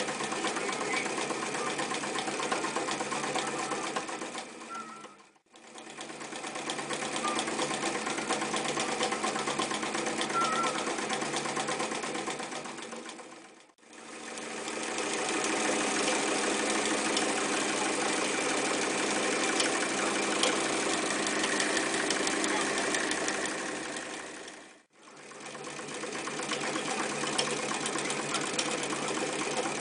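Elna Special type 31C electric sewing machine running and stitching at a steady speed. It slows to a stop and speeds back up three times, about a third of the way in, near the middle and about five seconds before the end.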